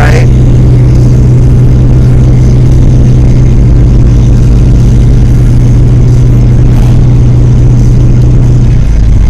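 Car driving, with a loud, steady low drone of engine and road noise inside the cabin; the hum changes shortly before the end.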